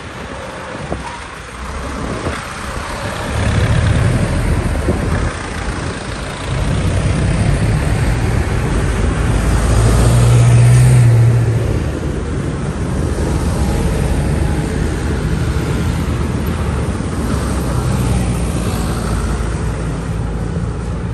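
Vintage tractor engines running as tractors drive past one after another, swelling and easing in turn, the loudest passing about halfway through.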